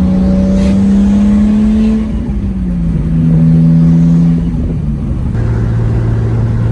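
Nissan Skyline R32's turbocharged straight-six running through an exhaust with the muffler and cat-back removed, so the gas goes straight back from the catalytic converter, heard while driving. The engine holds a steady note, drops in pitch about two seconds in, holds again a little louder, then drops to a lower steady note about five seconds in.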